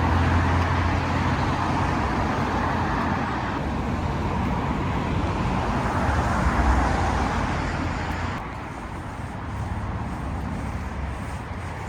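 Traffic on a busy road: a steady rush of passing vehicles over a deep rumble, swelling about six seconds in and dropping a little about two seconds later.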